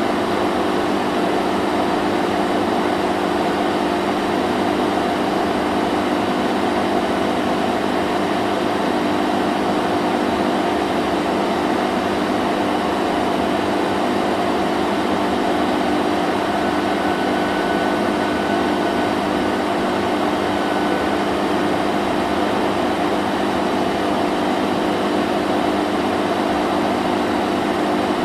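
Vacuum cleaner running steadily: an even motor hum over a broad rush of airflow noise, with no change in pitch or level.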